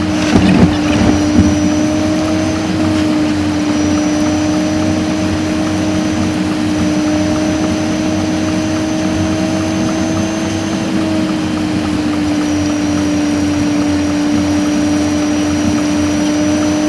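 Inside-the-car sound of a Renault Laguna's 1.8-litre eight-valve four-cylinder engine and road noise, played at five times speed, which turns it into a steady high drone that drifts only slightly in pitch. A few sharp knocks sound about a second in.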